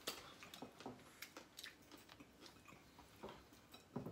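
Faint chewing: irregular wet mouth clicks of people eating food at close range.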